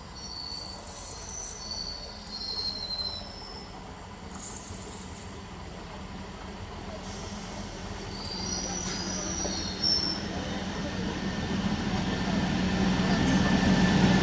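Electric multiple-unit local train approaching and drawing alongside, its rumble growing steadily louder. Thin, high wavering tones come twice along the way, and there is one sharp click about ten seconds in.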